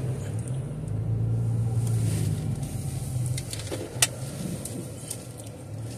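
Car engine running at low speed as the car creeps forward to straighten up in a parking space, heard from inside the cabin; the hum swells a little early in the manoeuvre. A single sharp click about four seconds in.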